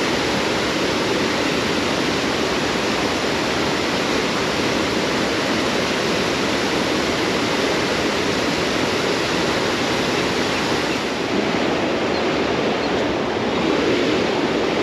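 Water pouring over a low-head roller dam, a steady, even rush.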